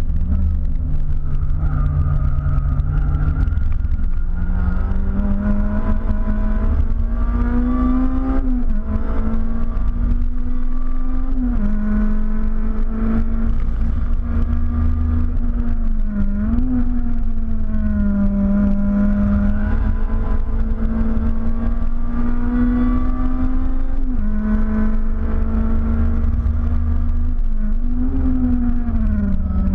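Tuned Honda K20 two-litre four-cylinder of about 270 hp, heard from inside the Civic's cabin, pulling hard at high revs on track. Its pitch climbs slowly and drops sharply a few times as it shifts up through the gears, with brief dips and blips later on, over a steady low road and wind rumble.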